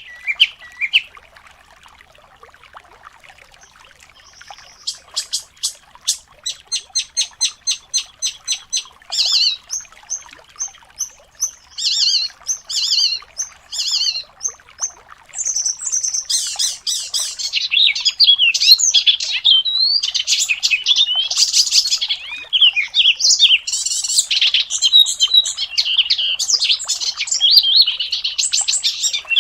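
A songbird singing: after a short phrase and a lull, a run of clipped notes repeated several times a second, then repeated downslurred notes, which build into a continuous rapid, high warble through the second half.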